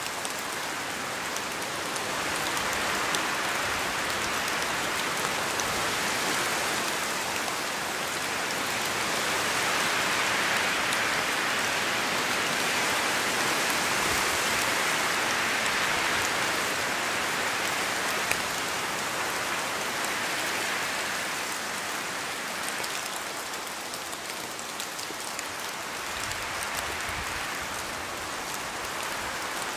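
Steady rain falling, a dense patter of drops on surfaces that swells a little in the middle and eases slightly toward the end.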